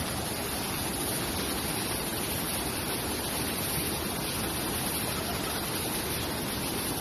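Steady rushing of water, an even, unbroken noise with no distinct events.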